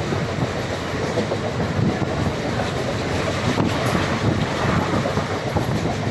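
Indian Railways passenger train running steadily, its wheels rolling over the rail track with a continuous rumble.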